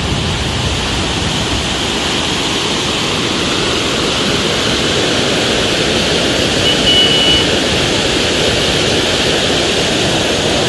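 Loud, steady roar of a torrent of falling, rushing water.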